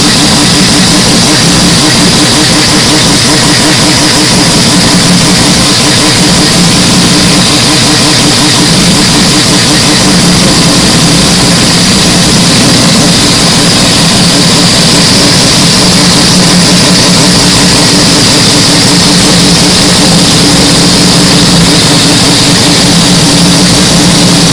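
Mazda 767B's four-rotor rotary engine running at a steady speed, loud and heavily distorted.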